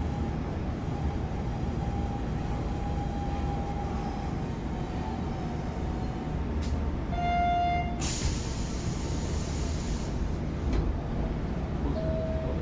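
Hanshin 8000 series electric train running, heard from on board: a steady rumble of wheels on the track with a faint wavering whine. About seven seconds in a short pitched tone sounds for under a second, followed at once by a hiss lasting about two seconds.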